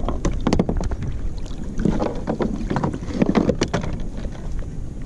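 A string of uneven knocks, bumps and rustling as a large California halibut is hauled aboard and shifted on a kayak, over a low rumble of wind.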